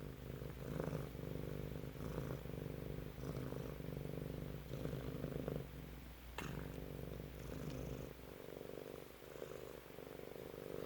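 A cat purring close up, swelling and easing in cycles of about a second and a half as it breathes in and out, with one sharp click about six seconds in; the purr grows softer near the end.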